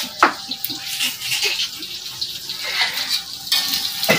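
Flour-battered tofu frying in hot oil, a steady sizzle, with faint voices in the background.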